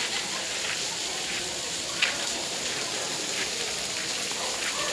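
Steady patter of rain and dripping water, with one sharper drop about two seconds in.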